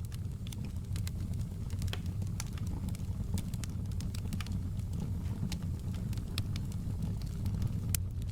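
Fireplace crackling: irregular sharp pops over a steady low rumble.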